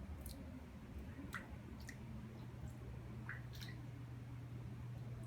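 Faint wet squishes and drips of floodwater, about six short ones scattered through, over a low steady hum.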